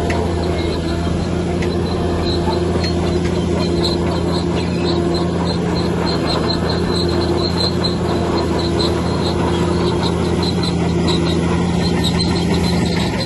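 Heavy diesel engine of earthmoving equipment running steadily at constant speed, with a faint, rapidly repeating high squeak over it.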